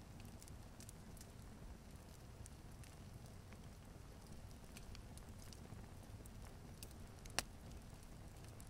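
Log fire crackling: scattered small pops and snaps over a low steady rumble, with one sharper pop about seven seconds in.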